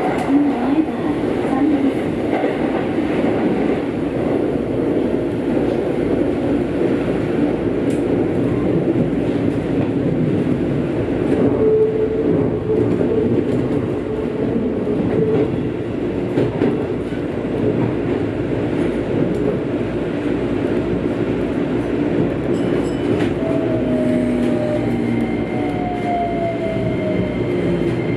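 Electric commuter train running on the rails, heard from inside the front car: a steady rumble of wheels and motors as the train approaches a station. Near the end a pitched electric whine falls in pitch as the train slows for the platform.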